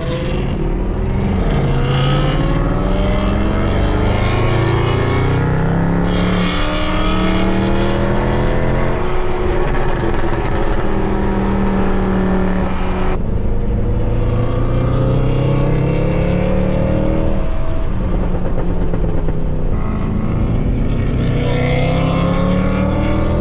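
Mercedes C63 AMG's 6.2-litre V8, with its secondary catalytic converters and resonators deleted, accelerating hard: the exhaust note climbs in pitch through each gear and drops back at each upshift, several times over.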